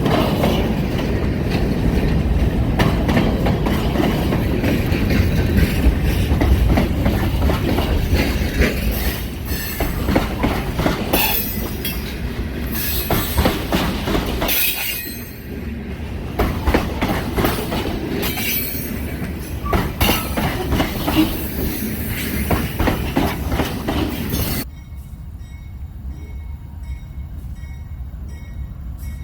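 Freight train cars rolling past with a steady clatter of wheels over the rails, with high-pitched wheel squeal coming and going. About 25 seconds in, the sound drops suddenly to a quieter low rumble.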